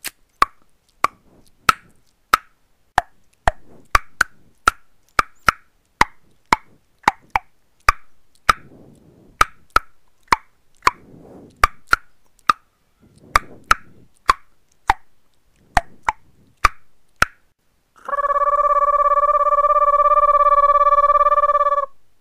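Vocal sound effects made with the mouth: a long run of sharp mouth pops, about two a second, each with a short falling pitch, then a steady held note for about four seconds near the end, like a telephone tone.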